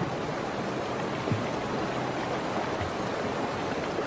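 Fast river water rushing steadily, with a couple of soft low thuds in the middle.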